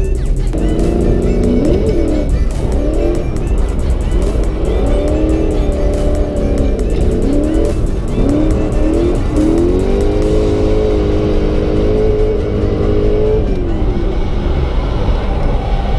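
Toyota 1UZ V8 swapped into a Nissan S13, heard from inside the cabin, revving up and dropping back again and again as the car is driven and shifted through the gears.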